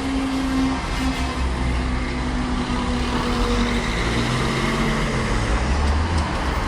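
Class 444 Desiro electric multiple unit running over the crossing: a low rumble under a motor whine that slowly falls in pitch as it goes by.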